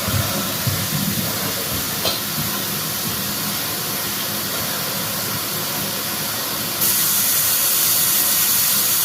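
Tap water running steadily into a container, mixing cold water into hot; the flow grows louder about seven seconds in.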